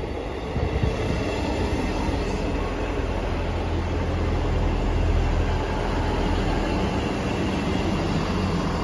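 ScotRail Class 158 diesel multiple unit arriving along the platform: a steady, loud rumble of its underfloor diesel engines and wheels on the rails, building over the first second and then holding.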